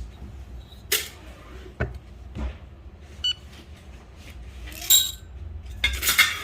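Digital kitchen scale beeping once as it is zeroed, amid clicks of a container being set down, then coffee beans clattering as they are poured into the container, twice, near the end.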